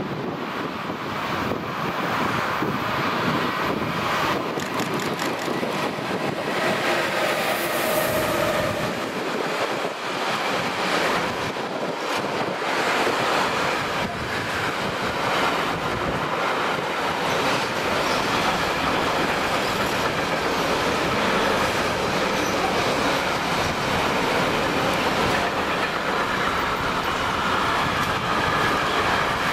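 Electric-hauled intermodal freight train passing close by: the steady rumble and clickety-clack of its wagon wheels on the track.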